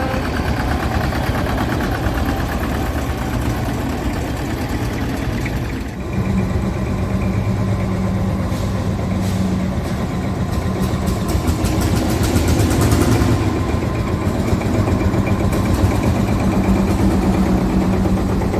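Vintage tractor engines running steadily as tractors drive off. The engine note shifts about six seconds in.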